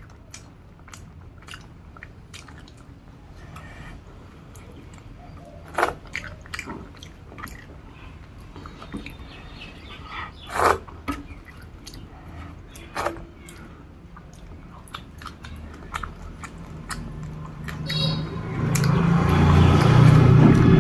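Close-miked chewing and mouth sounds of a person eating a meal of rice and curry: repeated wet clicks and smacks, a few sharper ones. Near the end a louder, pitched sound swells in over the chewing.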